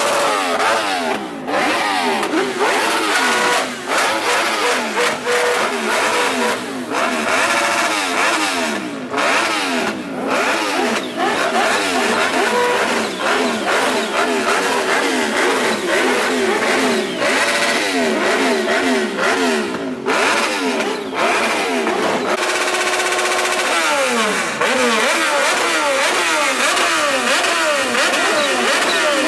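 Several sport motorcycles revving their engines over and over, overlapping, the engine notes rising and falling throughout.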